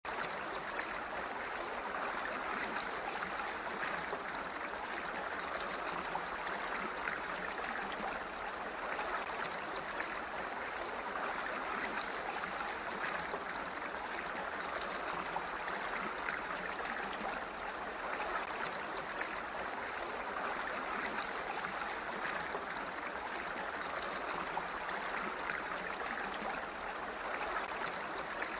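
Flowing water making a steady, even rush that does not change throughout.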